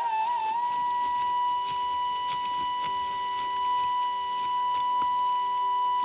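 Background music: a flute holds one long, steady high note after a brief wavering ornament at the start, over a soft low drone.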